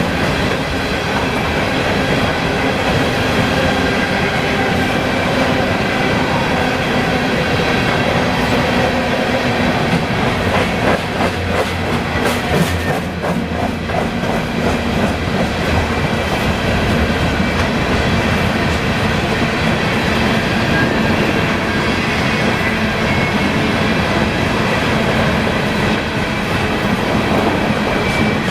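A long train of railroad cars rolling steadily past, with a continuous rumble of wheels on rail. Around the middle comes a run of rhythmic clickety-clack as the wheels cross rail joints.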